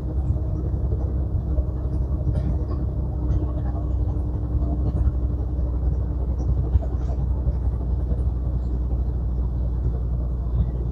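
Semi-truck's diesel engine and road noise heard from inside the cab, a steady low rumble as the truck pulls uphill under load. A faint hum over it fades out about halfway through.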